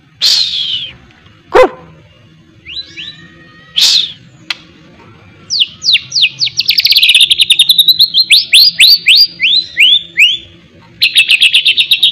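White-rumped shama (murai batu) singing. A few loose sharp notes and a slurred phrase are followed about halfway in by a fast run of downward-sliding whistles, several a second, and a rapid trill near the end: the busy 'gacor' song filled with miwah-style phrases.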